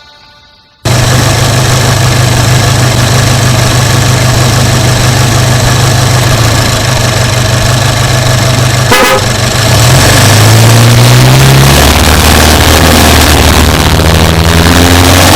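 Subaru Impreza Sport's 2.0-litre flat-four engine running loud and steady, cutting in suddenly about a second in. There is a brief click about nine seconds in, and from about ten seconds its pitch rises and falls as the car drives on.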